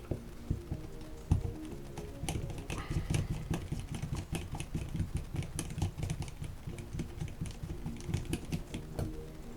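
Background music with a rapid run of small clicks and rattles from handling plastic and metal model-kit parts, busiest a couple of seconds in.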